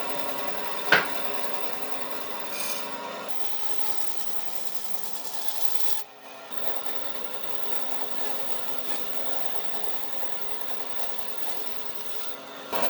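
Electric power tool running steadily and working wood, with a steady motor hum under a rasping, rubbing sound. There is a sharp knock about a second in, and the sound briefly drops away about six seconds in.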